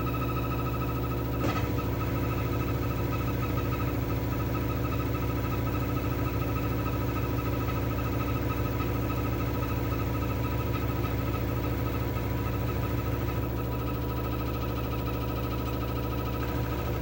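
LG F12A8ND front-loading washing machine running steadily mid-cycle, a constant low motor hum with a thin whine over it. There is a single faint click about a second and a half in.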